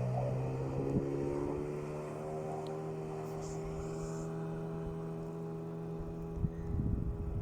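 HDX 9.9 outboard motor running steadily, its pitch shifting about a second in and then holding level. A few knocks near the end.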